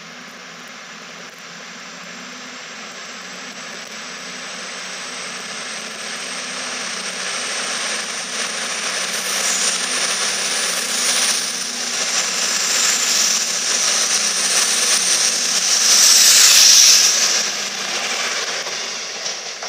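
CrossCountry Voyager diesel multiple unit running in along the platform and passing close by. Its underfloor diesel engines and a high whine grow louder, are loudest about three-quarters of the way through, then ease off.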